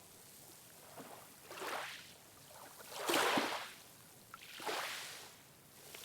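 Ocean waves splashing: three short surges of water about a second and a half apart, the middle one the loudest, over a faint steady wash.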